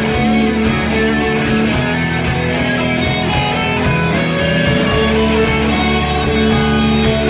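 Live rock band playing an instrumental stretch: electric guitars, bass guitar and drums, with a steady cymbal beat over sustained guitar chords.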